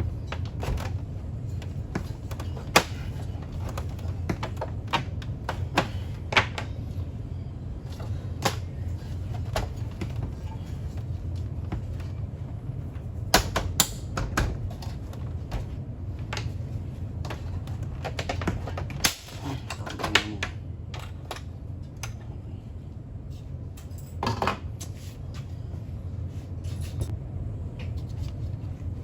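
Irregular clicks and knocks of parts and tools being handled while a coffee machine is taken apart, over a steady low hum.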